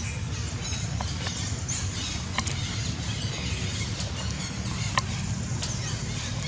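Steady low rumble with a high hiss over it, broken by a few sharp clicks, the loudest about five seconds in.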